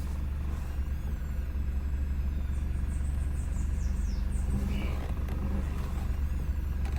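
Renault Sandero 1.0 three-cylinder engine idling with a steady low hum while the electro-hydraulic power steering is worked. A few faint high whines, falling in pitch, come in around the middle. The owner finds this steering noise strange and does not know its cause.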